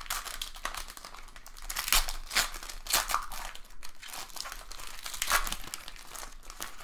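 Crinkling and crackling of a trading-card pack's wrapper, handled and torn open by hand, with a few louder crackles along the way.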